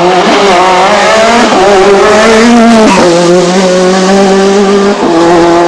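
Rally car engine running hard at high revs, its note held steady with brief breaks about three and five seconds in.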